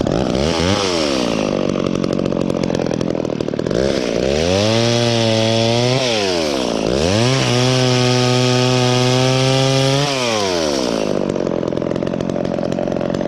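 Two-stroke chainsaw running. It drops to idle right after the start, is throttled up to full speed twice for a couple of seconds each, about halfway through and again a second later, and drops back to idle near the end.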